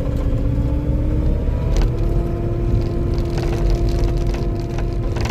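Diesel engine and hydraulics of compact earthmoving equipment working under load, the running pitch stepping up about two seconds in. From then on, intermittent crunching and cracking of wood and brush being pushed.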